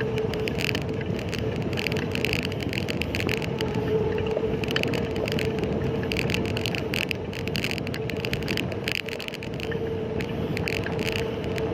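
Riding noise heard from a moving bicycle: a steady road hum with frequent short rattling clicks throughout.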